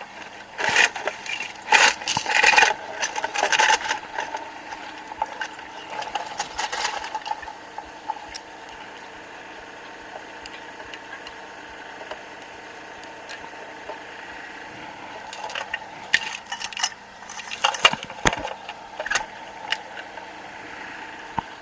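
Metal clanking and rattling in two flurries, at the start and again in the second half, as a chain and hook are worked around an old Chevy engine block, with a tractor's diesel engine idling steadily underneath.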